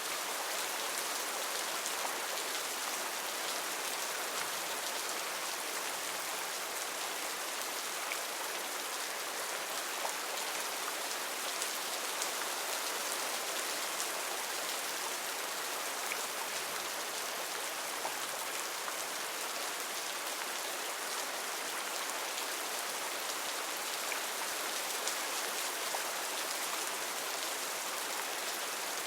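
Heavy rain falling steadily on rainforest foliage, a dense even hiss with scattered individual drop ticks.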